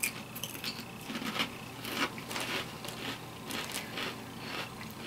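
Kettle-style potato chips being chewed: a run of irregular crisp crunches, about two to three a second.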